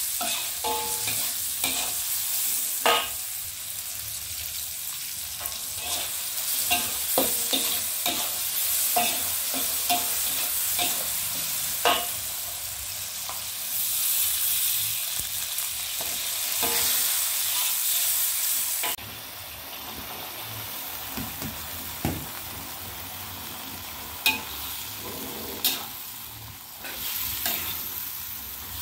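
Oncom and chilies stir-frying in oil in a wok: a steady hissing sizzle, with a metal spatula scraping and clanking against the wok as it stirs. The sizzle drops abruptly to a quieter level about two-thirds through.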